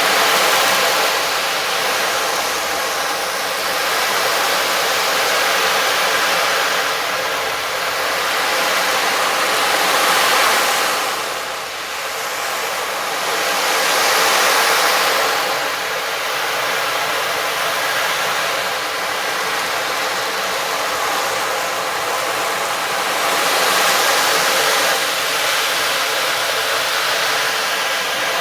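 A loud rushing hiss that swells and fades in slow waves every few seconds, with no clear pitch.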